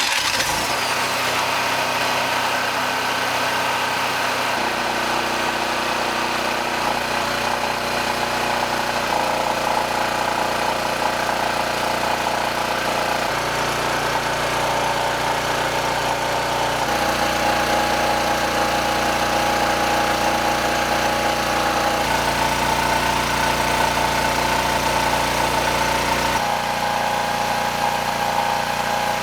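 Harbor Freight 4,000-watt portable generator's engine running steadily, its tone changing abruptly several times.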